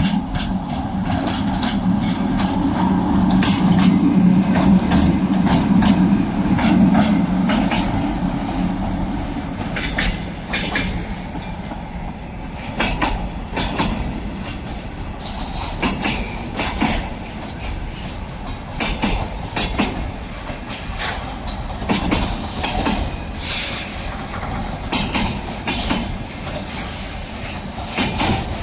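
2ES6 'Sinara' electric locomotive passing with a strong steady hum, loudest about four to seven seconds in, then freight wagons rolling by with repeated clacking of wheels over rail joints.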